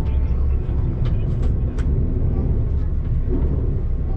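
KTX high-speed train running at speed, heard from inside the passenger car: a steady low rumble, with a few faint clicks about a second in.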